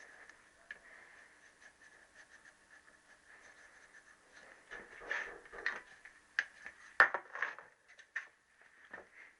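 Small metal parts and tools being handled on a workbench: scattered light clicks and clinks, busier in the second half, with one sharp knock about seven seconds in. A faint steady high tone runs underneath.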